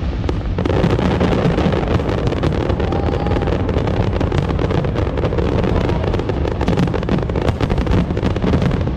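Aerial fireworks display firing a dense, continuous barrage: many sharp pops and crackles close together over a steady low rumble of bursts, thickening about half a second in.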